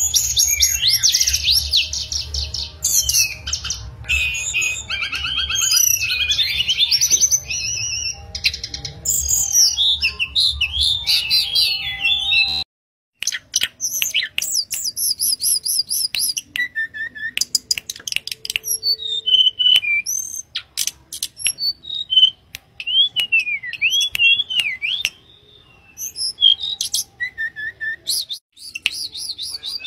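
Hill blue flycatcher (tledekan gunung) singing a fast, varied song of whistled glides and high chips. The sound breaks off suddenly about 13 seconds in. It resumes with clearer, more spaced whistled phrases, and the low hum under the first part is gone.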